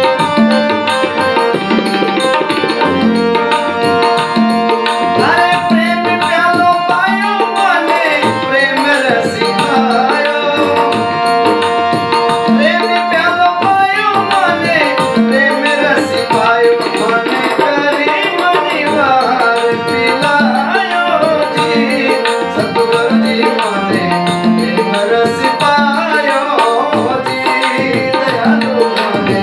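Rajasthani bhajan music: a steady hand-drum rhythm under held tones, with a gliding, ornamented melody line coming in about five seconds in.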